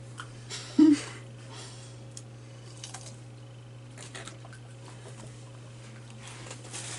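A quiet room with a steady low hum, a few faint clicks and taps, and one short vocal grunt about a second in.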